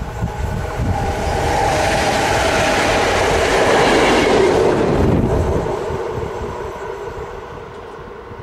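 Electric multiple unit hauling a diesel locomotive passing at speed on an electrified main line: the wheels' rumble on the rails swells to a peak about four seconds in, then fades as the train goes away.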